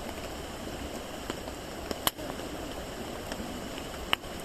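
Wood campfire burning with a steady hiss and scattered crackles, two sharp pops standing out about two seconds in and near the end.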